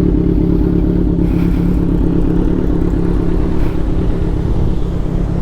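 Kawasaki Z900 motorcycle engine running at a steady speed while riding, a continuous low rumble with no revving.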